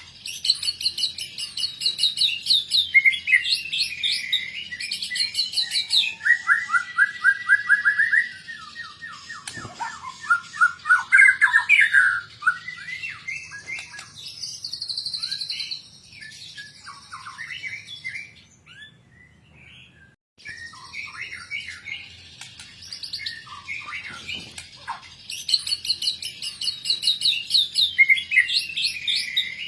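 White-rumped shama (murai batu) singing a long, varied song of rapid trills and whistled phrases, rich in imitated notes. It pauses briefly about two-thirds of the way through, then starts again.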